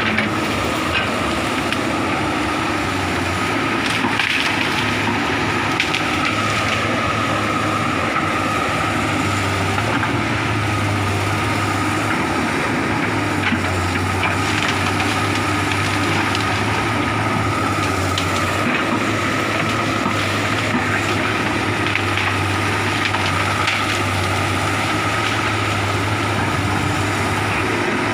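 Komatsu excavator's engine running steadily under load with a steady high whine, while wood cracks and splinters as the machine crushes and piles cleared trees and brush.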